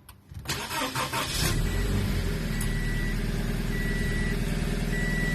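Scion FR-S's 2.0-litre flat-four boxer engine cranking and starting about half a second in, then idling steadily; the seller reports a slight rod knock in it. A repeating electronic chime beeps about every 1.2 seconds alongside.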